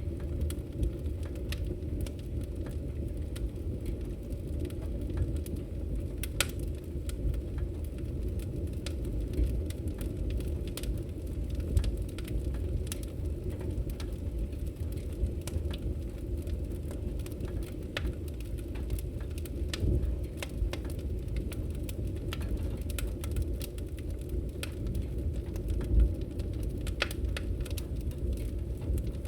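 Wood fire crackling in a fireplace: irregular sharp pops and snaps over a steady low rumble, with a couple of louder pops.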